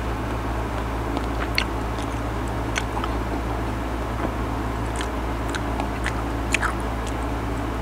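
A person chewing mango slices close to the microphone: wet mouth sounds with sharp, crisp clicks about once a second, over a steady low hum.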